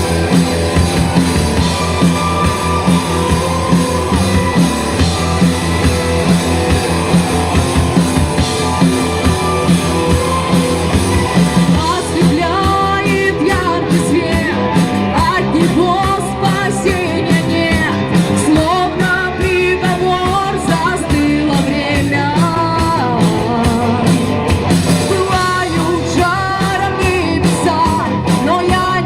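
A rock band plays a song, instrumental at first, with a singer coming in about twelve seconds in and singing over the band for the rest.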